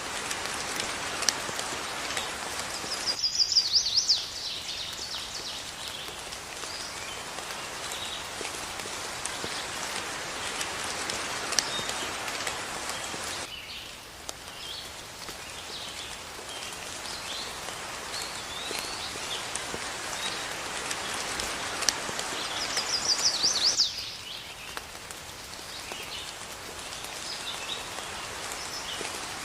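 Steady rain falling, with birds calling over it: scattered short high chirps throughout, and twice, about three seconds in and again near the end, a louder quick run of high notes.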